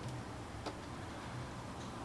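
A near-silent pause in solo gayageum (Korean zither) music: a few faint sharp clicks, one near the start and one under a second in, from light contact with the silk strings between plucked phrases.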